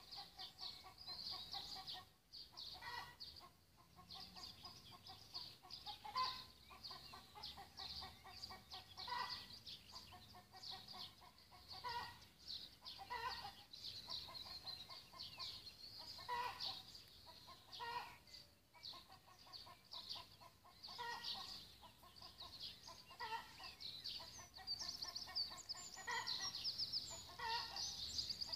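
Birds calling: continuous high twittering song, with lower short calls that repeat every second or two.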